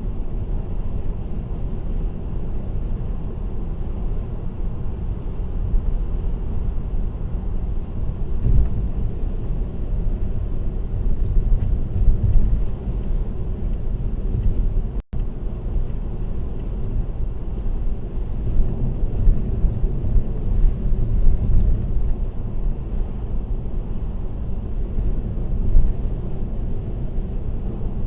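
Steady low rumble of road and engine noise from a car cruising on an expressway, picked up by a dashcam. The sound drops out for a split second about halfway through, with a few faint crackles on top.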